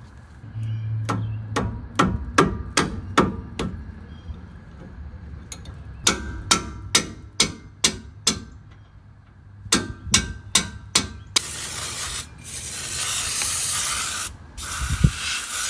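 Runs of quick, sharp strokes of hand work, about two or three a second, in three bursts. About eleven seconds in, a steady spraying hiss from a pressurised refillable brake parts cleaner takes over, with a brief break near the end.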